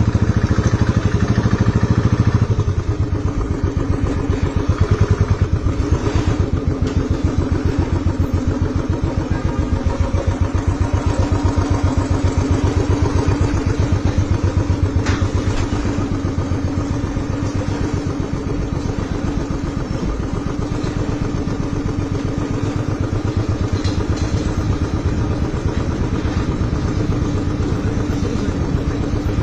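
Motorcycle engine running steadily with a rapid, even firing pulse, a little louder for the first couple of seconds before settling.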